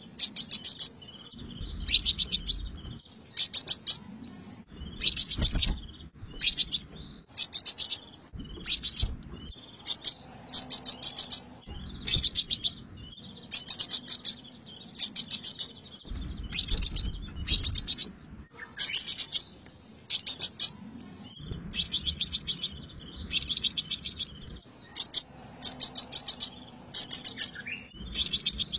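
Sunbird calling: short bursts of rapid, high trilled notes, repeated about once a second throughout.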